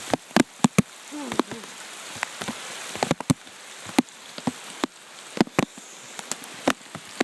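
Steady rain hiss with frequent irregular sharp taps of raindrops striking the plastic bag wrapped around the phone.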